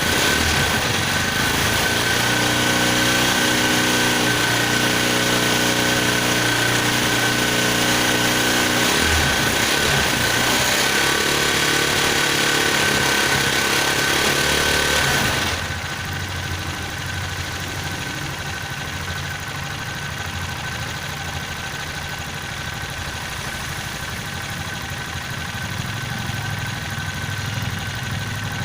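Freshly reassembled Viar engine running steadily at idle after its block was refitted. It runs louder at first, then its level drops suddenly about halfway through and stays steady after that.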